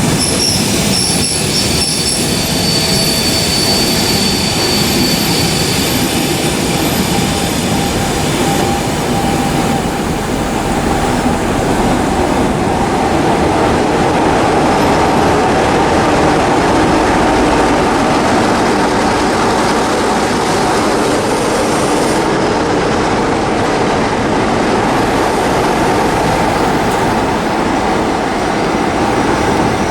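Train of passenger coaches rolling past at close range: a steady rumble and rattle of wheels on the rails, with a high wheel squeal over the first few seconds.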